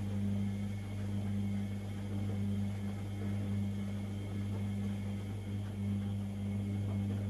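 Privileg Sensation 952 S top-loading washing machine running with a steady low hum.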